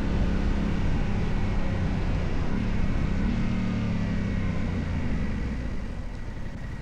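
Yamaha Ténéré 700's parallel-twin engine running steadily under way, with wind and road noise, easing off and getting quieter over the last second or two.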